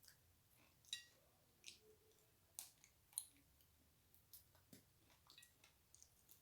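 Faint close-miked eating sounds: the mouth clicks and wet smacks of someone chewing chicken feet, about a dozen irregular sharp clicks.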